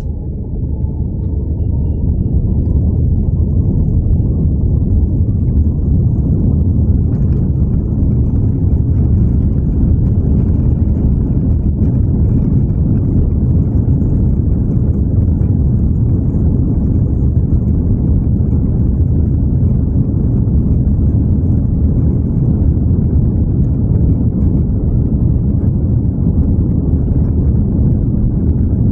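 Airplane taking off from the runway: a loud, steady, deep rumble of engine and rolling noise that builds over the first couple of seconds and then holds.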